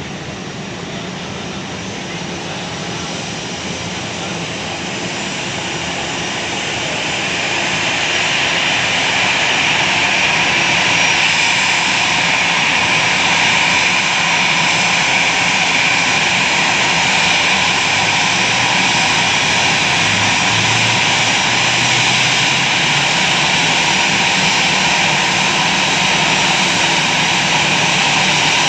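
Jet airliner's engines roaring with a steady whine as the plane comes in to land, growing louder over the first ten seconds or so and then holding steady and loud.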